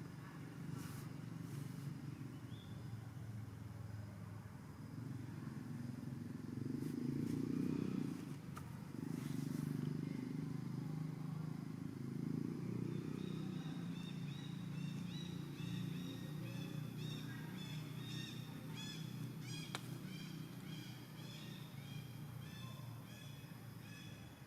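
Outdoor ambience with a steady low rumble. From about halfway through, a run of short, rapidly repeated high chirping calls joins in and continues to the end.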